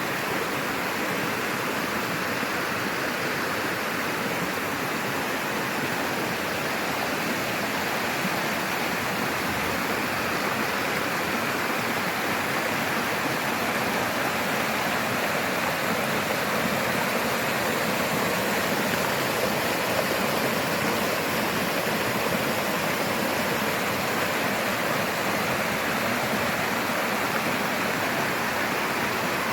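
Running water rushing steadily and evenly, without a break.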